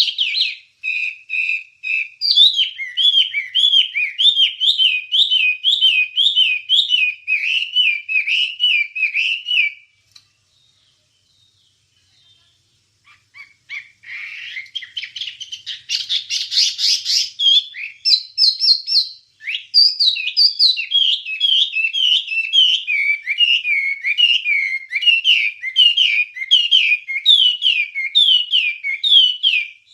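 Wambie songbird singing long runs of rapid, repeated whistled notes. The song breaks off for about three seconds near the middle, returns with a louder, higher burst of chatter, then goes back to its quick repeated phrases.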